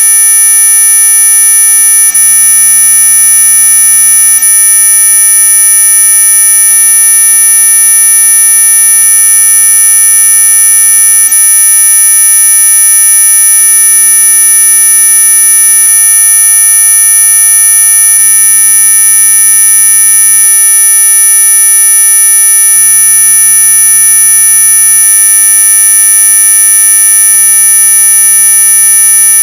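Synthetic anti-mosquito repellent tone: many steady high-pitched electronic tones sounding together as one loud, unchanging whine, strongest at the very top of the hearing range.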